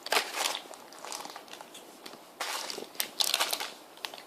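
Crinkling of a grape Hi-Chew candy wrapper being handled and opened, in several short bursts with a busier stretch near the end.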